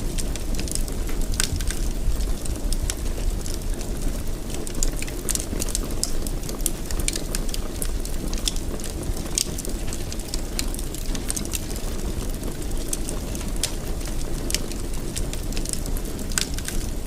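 Wood fire crackling in a fireplace: frequent irregular sharp pops and snaps over a steady low rumble of flames.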